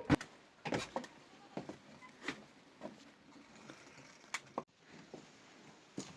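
A series of light, irregularly spaced knocks and taps, about nine in all, the loudest near the start.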